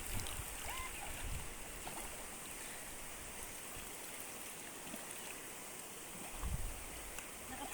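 Steady rush of flowing water, with low rumbles near the start and again shortly before the end.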